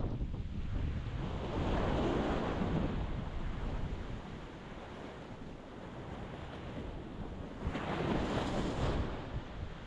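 Ocean waves breaking on a rocky shore, a steady wash of surf that swells twice, the second wave crashing hardest about eight seconds in. Low wind rumble on the microphone underneath.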